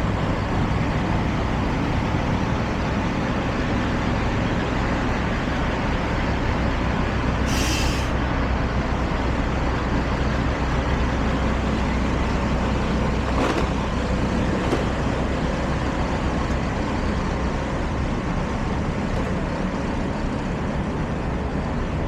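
Steady street traffic noise with a low engine rumble from buses and trucks, and a short high hiss, about half a second long, a little over seven seconds in.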